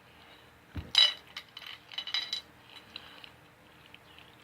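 Cutlery clinking against a plate: a sharp ringing clink about a second in, the loudest sound, followed by a quick run of lighter clinks and taps.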